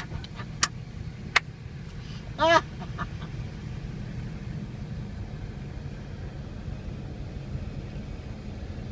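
A steady low engine rumble of a running vehicle, with two sharp clicks in the first second and a half and one short pitched call, like a honk, about two and a half seconds in.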